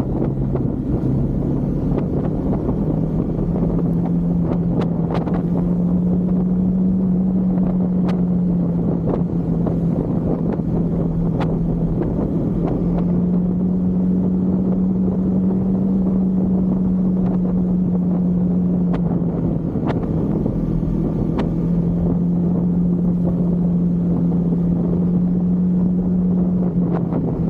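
Husqvarna Svartpilen 401's single-cylinder engine running at a steady riding pace, its pitch stepping up and down slightly a few times, with wind buffeting the camera microphone and occasional sharp ticks.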